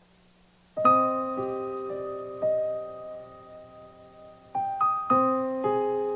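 Background music: a piano playing slow, single ringing notes that let each one die away, starting about a second in.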